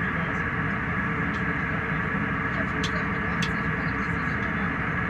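Steady airliner cabin noise in flight: the even rush of airflow and jet engines, with a faint steady tone and a couple of faint clicks a few seconds in.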